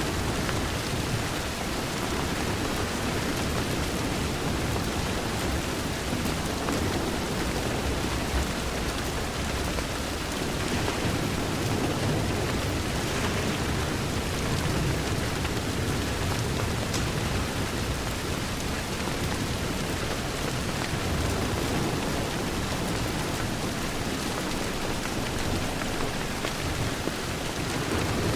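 Steady heavy rain against a window: an even, unbroken hiss with a deep rumble underneath.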